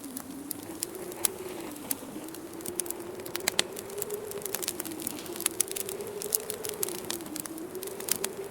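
Wood fire crackling with frequent sharp, irregular pops and snaps, over a low, steady wind howl that slowly rises and falls in pitch.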